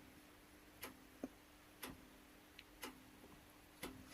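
Near silence with a faint clock ticking about once a second.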